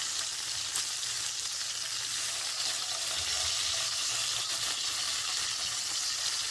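Fish frying in hot oil in a pan: a steady, even sizzle.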